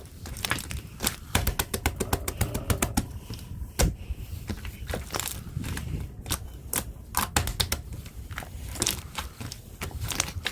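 Homemade sand-textured slime being pressed and played with by hand, giving a dense, irregular run of sharp crackling clicks.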